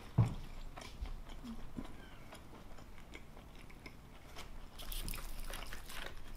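A person chewing a mouthful of mac and cheese, with small wet mouth clicks that grow louder and busier about five seconds in.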